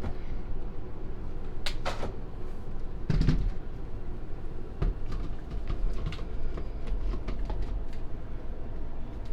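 Kitchen knocks and clunks while ice cream and milk are worked together: a few sharp knocks about two, three and five seconds in, over a low rumble.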